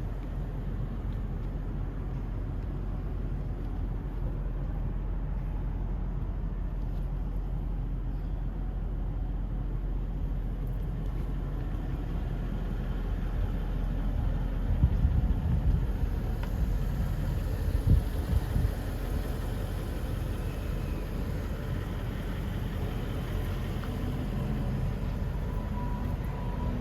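Car running: a steady low rumble of engine and road noise, with a few louder low thumps about halfway through.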